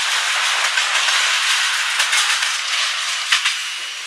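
Freight train rolling past close by: a steady rushing rattle of steel wheels on the rails, with a few sharp clacks about two seconds and three and a half seconds in. The noise starts to fade near the end as the last cars go by.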